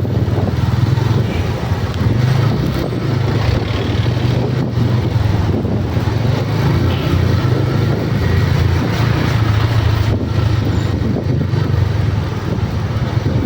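A motor vehicle's engine running steadily at an even pitch, with road and wind noise over it.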